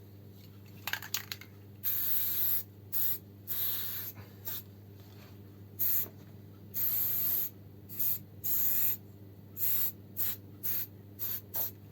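Aerosol can of Hammerite spray paint spraying black paint in repeated bursts. There are about fifteen hisses, most of them short and a few lasting most of a second.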